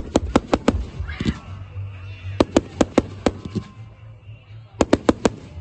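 Fireworks going off: groups of sharp cracking bangs, several in quick succession, with short gaps between the groups.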